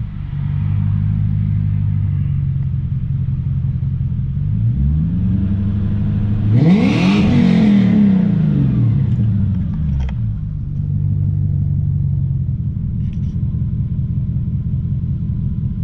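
BMW E39 540i's 4.4-litre V8 heard through a custom exhaust with the cats removed, a 3-inch Y-pipe and a Thrush muffler. It runs steadily, revs up once about five seconds in, falls back over the next few seconds, then settles again.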